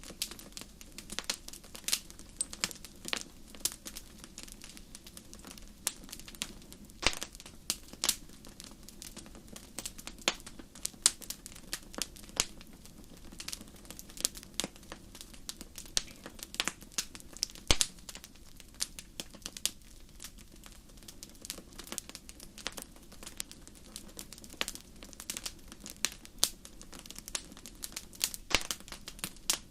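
Wood fire burning in a fireplace, with frequent sharp irregular crackles and pops over a faint low rush of flame.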